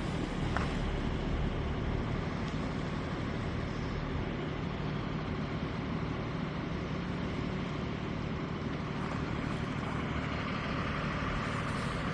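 Steady rushing noise of wind and road while riding a bicycle, with traffic-like rumble underneath.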